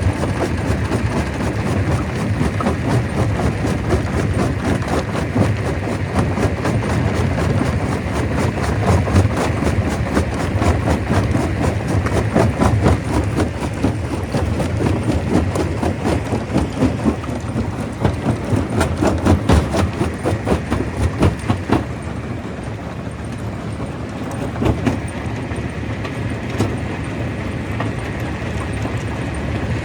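Stone crusher running, with a steady low machine hum and a dense, irregular clatter of rock being broken. The clatter eases after about two-thirds of the way through, leaving mostly the steady running of the machine.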